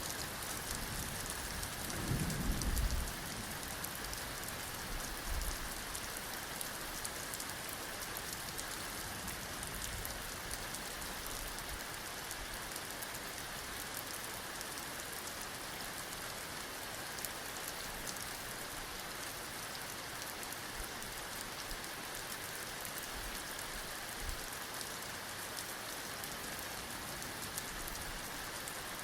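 Heavy rain falling steadily, with a short low rumble of thunder about two seconds in.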